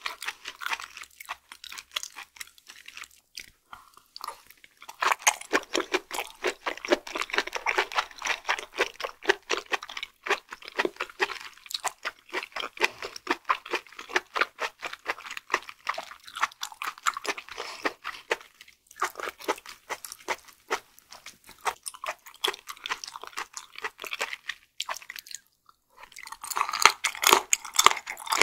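Close-miked chewing of raw flatfish sashimi, very firm and chewy in texture: a fast, dense run of sticky mouth clicks in bursts, with short pauses about four, nineteen and twenty-five seconds in.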